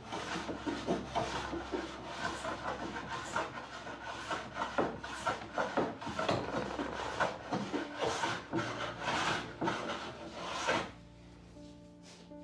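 Rapid, irregular rubbing and rasping strokes of hand work on a wooden door's surface, stopping about a second before the end.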